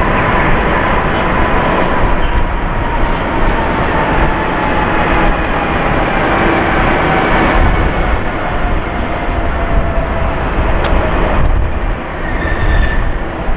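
A train running out of sight, with a steady rumble and a high whine that slowly falls in pitch over about ten seconds.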